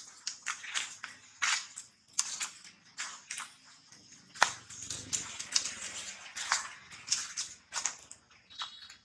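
Irregular crackling and snapping, many short sharp clicks, with one louder crack about halfway through.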